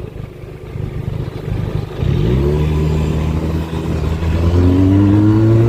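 Benelli 302S's parallel-twin engine rumbling at low revs, then pulling hard about two seconds in, its pitch climbing steadily as the motorcycle accelerates.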